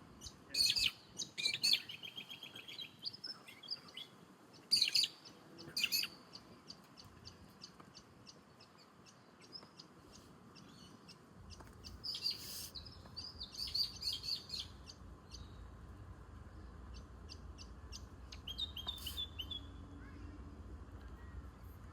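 Wild birds calling: bursts of sharp chirps and whistles with a rapid rattling trill, loudest in the first few seconds and again about halfway, over a faint low rumble that starts about halfway.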